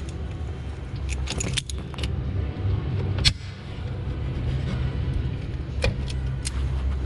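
Metal tools and parts clinking against each other in a few sharp clicks, the loudest about three seconds in, over a steady low hum.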